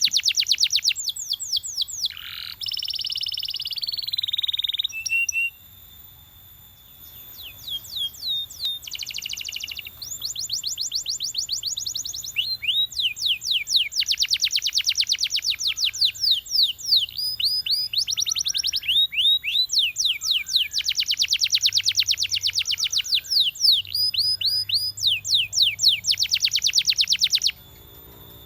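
Canary singing a long song made of very fast trills of repeated high, down-sweeping notes, with a held warbling phrase early on and a short lull. The song breaks off suddenly near the end.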